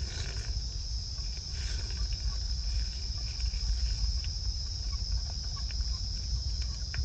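Steady chorus of night insects in the forest, a continuous high trill, over a low rumble with a few faint scattered ticks.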